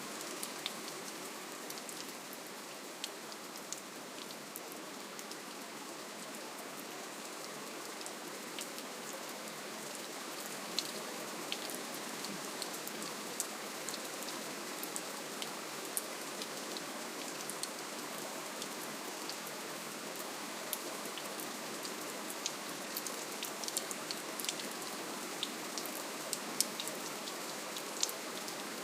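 Steady rainfall: an even hiss of rain with many separate drops ticking sharply on a surface, a little busier in the second half.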